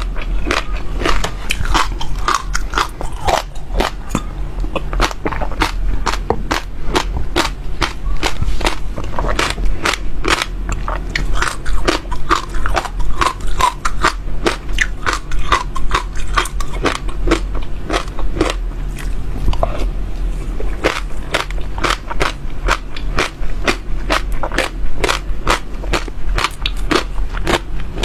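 Close-miked seeds being crunched between the teeth: rapid, irregular crisp cracks and crackles, several a second, over a low steady hum.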